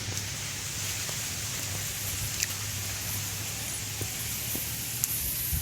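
Campfire burning with corn roasting on it: a steady hiss with a few scattered crackles and pops.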